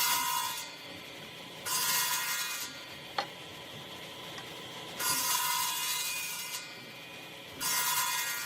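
A hand tool working wood in four long rasping strokes, each lasting about a second with a ringing edge, and a single sharp click just after three seconds.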